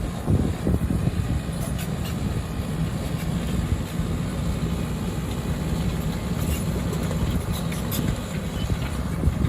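Heavy earthmoving machine's diesel engine running steadily, with a few faint clicks.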